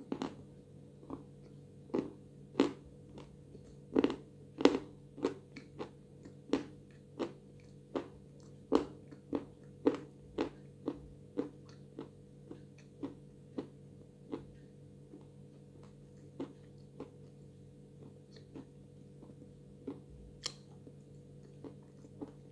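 Crunchy chewing of edible Znamensky chalk dipped in blue Uzbek clay paste: a run of sharp crunches, thick in the first half and thinning out toward the end.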